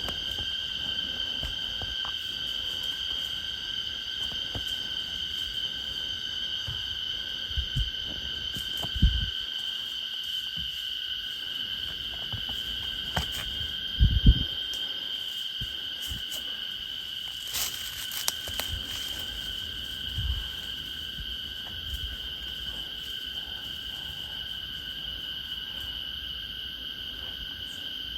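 A steady chorus of insects droning at a few high pitches, with a few low thumps about nine and fourteen seconds in.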